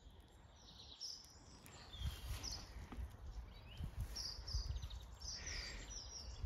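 Small birds chirping in short, scattered calls, over a low uneven rumble that sets in about two seconds in.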